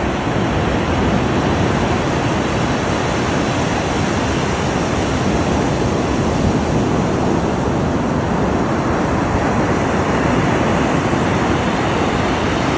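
Ocean surf washing in a continuous, steady rush of water noise.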